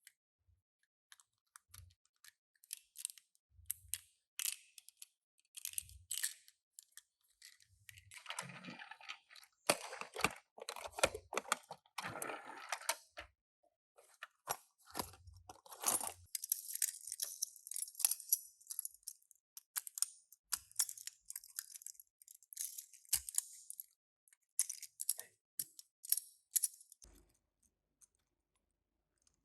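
Small toy packaging being handled and opened: crinkling plastic and cardboard with many sharp, irregular clicks, and a longer stretch of crinkling about midway.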